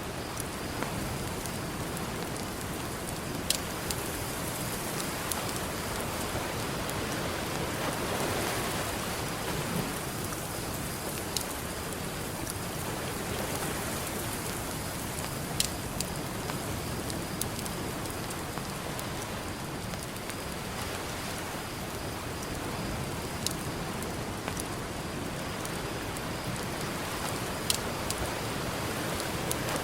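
Campfire crackling, with a few sharp pops from the burning wood, over the steady wash of ocean surf that swells and eases slowly.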